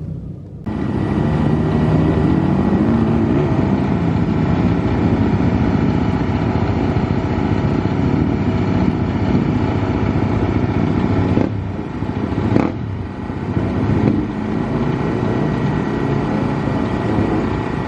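Dirt bike engine running hard under way, a dense steady motor sound that changes abruptly twice past the middle, where the footage is cut.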